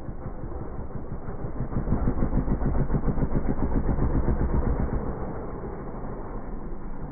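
Dirt bike engine running with rapid, even firing pulses, growing louder for a couple of seconds and then easing off. The recording sounds dull, with no treble.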